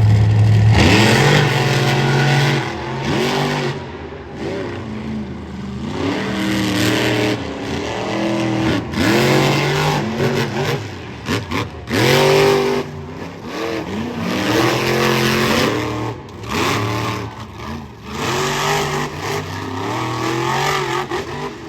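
Monster truck engine revving hard over and over, its pitch climbing and dropping every second or two as the throttle is worked.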